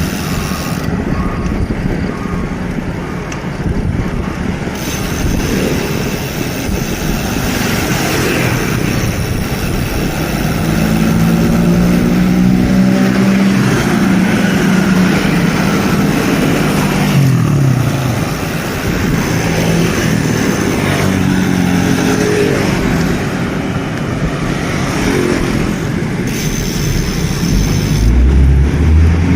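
Road traffic heard from a moving bicycle, mainly motorcycles, under steady wind rush on the microphone. An engine passes close about eleven to seventeen seconds in, its pitch dropping as it goes by.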